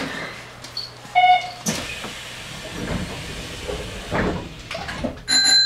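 Hanshin Railway train standing at a station. About a second in there is a short electronic tone, followed by a sharp hiss of compressed air. A rumbling, clattering stretch follows, consistent with a train passing on the adjacent track, and a high electronic tone begins near the end.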